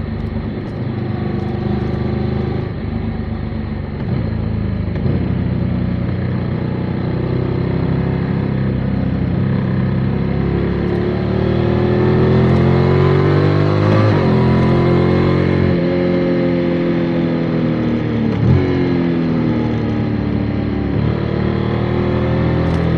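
Motorcycle engine running on the road, its pitch rising and falling with the throttle. The pitch climbs for a few seconds past the middle, then breaks sharply twice, about 14 and 18 seconds in, before rising again.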